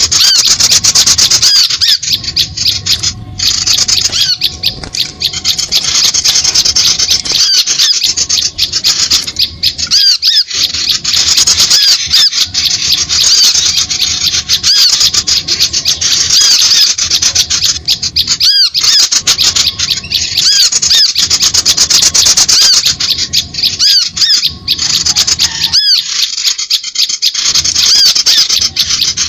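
Bird-trapping lure call: a loud, dense chorus of small birds chattering and chirping in rapid high-pitched calls, with a few brief gaps.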